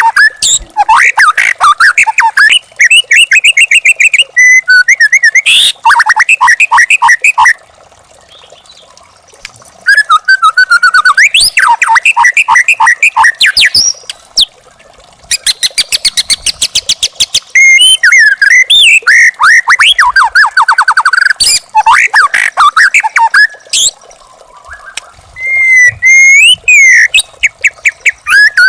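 A young wild white-rumped shama singing loud, varied phrases of rapid repeated notes and gliding whistles, broken by short pauses.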